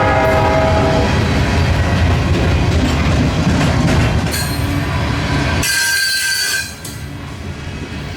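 A train running by with a low, loud rumble as its multi-tone horn chord ends about a second in. Past the middle come high-pitched wheel squeals, after which the sound drops to a quieter level.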